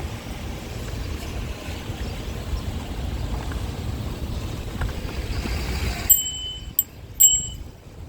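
Wind rumbling on the microphone while cycling, which drops away about six seconds in; then a bicycle bell dings three times in quick succession.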